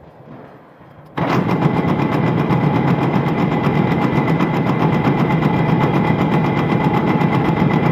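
An engine catches about a second in and then runs steadily, with rapid, even firing pulses.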